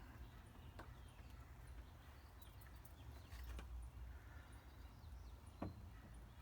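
Near silence: a low background rumble with a few faint clicks, the loudest about five and a half seconds in.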